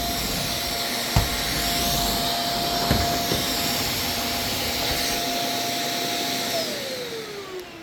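Vacuum cleaner running with a steady whine, with two short knocks in the first few seconds. About six and a half seconds in it is switched off and the motor's whine falls in pitch as it winds down.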